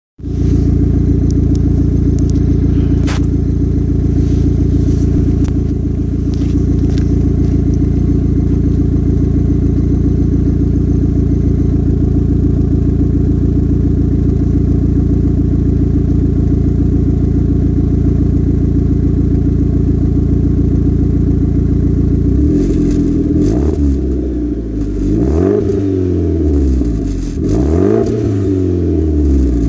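Mitsubishi Outlander Turbo's engine, breathing through a 3-inch custom exhaust with a MagnaFlow high-flow chamber muffler, idling steadily for about twenty seconds. It is then revved up and let fall back several times in quick succession.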